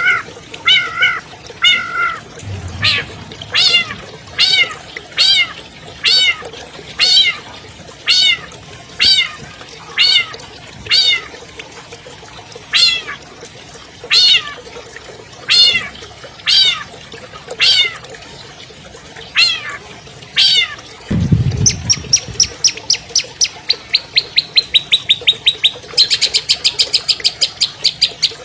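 Long-tailed shrike (cendet) singing: a run of loud, repeated whistled calls that arch down in pitch, about one a second. Near the end these change to a fast, high trill that speeds up. A single low thump comes shortly before the trill.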